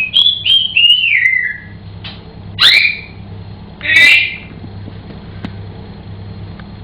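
African grey parrot whistling a quick run of short notes, the last one falling, then a rising whistle and, about a second later, a harsh squawk-like call.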